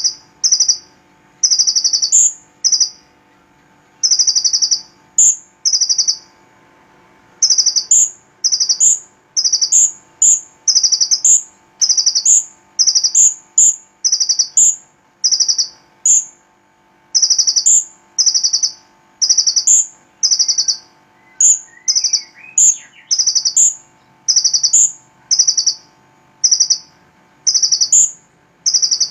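A small songbird calling a loud, short note, often followed by a higher, thinner one, repeated about one to two times a second with brief pauses. A faint steady hum lies underneath.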